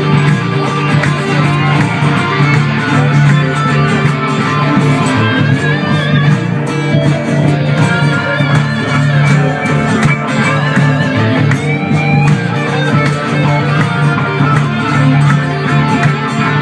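Acoustic guitar playing an instrumental passage of a song, strummed steadily with no singing.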